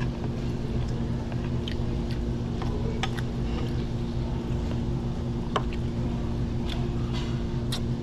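A steady low mechanical hum with a few short, light clicks and taps scattered over it.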